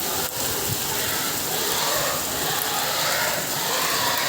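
Heavy rain falling steadily, an even hiss of drops on hard surfaces.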